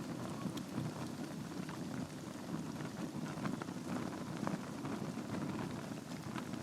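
Log fire burning in a fireplace: a steady low rush of flame with frequent small, irregular crackles and pops of the burning wood.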